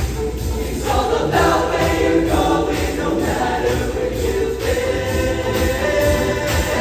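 Show choir singing over loud instrumental backing, with the voices holding long sustained notes in the latter half.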